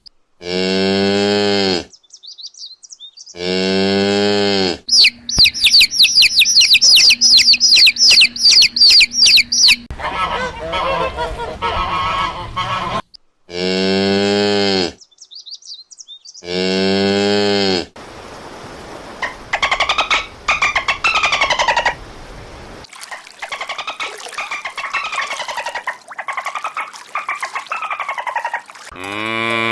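A cow mooing, the same long low moo repeated five times. Between the moos come other animal calls: a run of rapid high chirps, then repeated honk-like calls that rise and fall in pitch.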